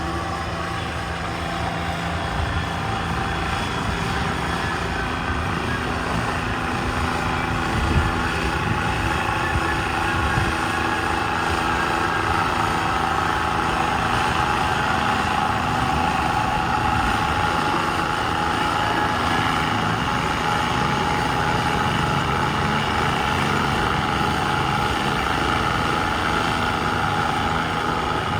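A garden pulling tractor's engine running steadily: a loud, unbroken engine drone, typical of a tractor working under load on the pull track.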